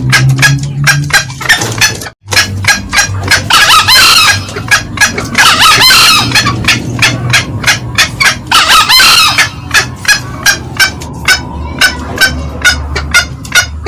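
Green junglefowl calling: a fast run of short cackling notes, about five a second, with three louder crows roughly two to three seconds apart. The sound cuts out for a moment about two seconds in.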